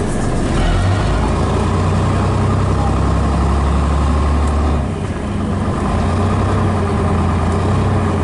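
Scania DS11 diesel engine of a Scania Metropolitan double-decker bus running with a deep, steady note. The note steps up just under a second in, then changes with a brief dip in level about five seconds in.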